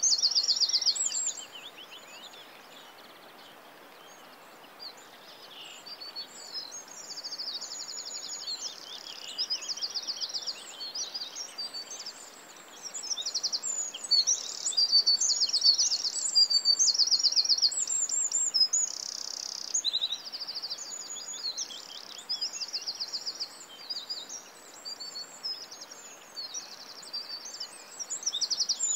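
Birdsong: several small birds chirping, whistling and singing fast, even trills. It drops to a few faint calls shortly after the start, then builds back up.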